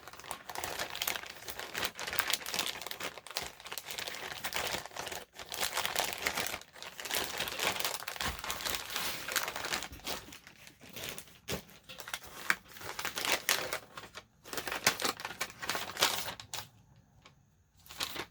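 Paper and packaging being handled: irregular crinkling and rustling as items are sorted and unwrapped, stopping shortly before the end.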